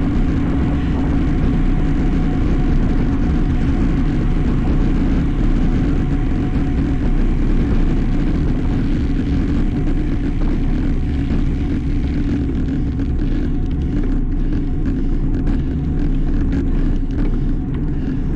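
Steady rumble of wind and road noise on a bike-mounted camera's microphone as a road bicycle is ridden, with no break or change.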